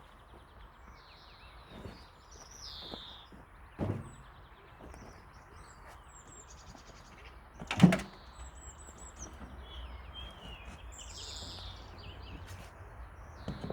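Small birds chirping and twittering throughout, with two dull thumps: a lighter one about four seconds in and a louder one just before eight seconds.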